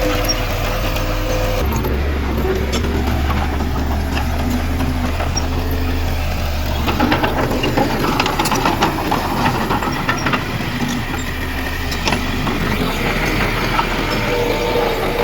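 Heavy diesel earthmoving machinery running steadily, its engine note shifting a couple of times, with a run of rattles and knocks about seven to nine seconds in.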